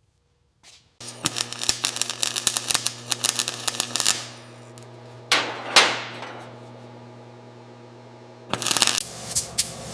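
Workshop power tool running with a steady hum under rapid clattering and knocking. A loud rushing burst about halfway through fades out, and another spell of clatter comes near the end.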